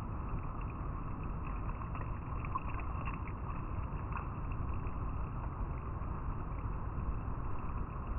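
River water flowing steadily over rocks: a constant, even rushing, with a few faint brief clicks over it.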